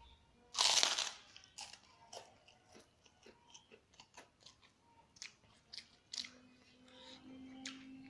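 Close-up eating sounds: one loud crunchy bite about half a second in, then wet chewing and smacking mouth clicks. A low steady hum joins about six seconds in.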